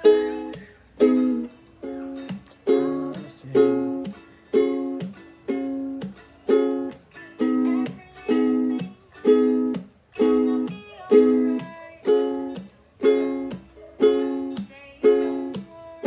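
Ukulele strumming short, choppy chords at a steady pace of about one a second, each chord dying away quickly before the next.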